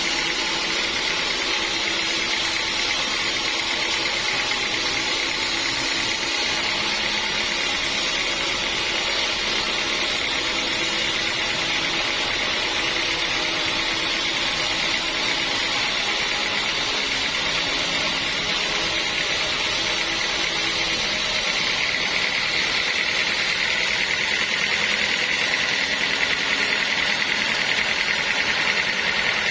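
Sawmill machinery running steadily, a continuous mechanical drone with a hissing upper edge. About three quarters of the way through, the tone shifts slightly brighter and a little louder.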